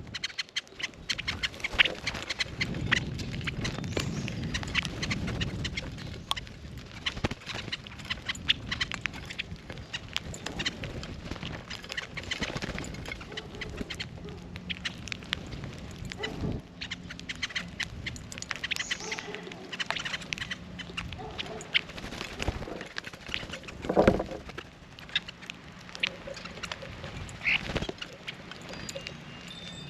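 Birds calling at a feeder, with many small clicks and taps, and one louder call about twenty-four seconds in.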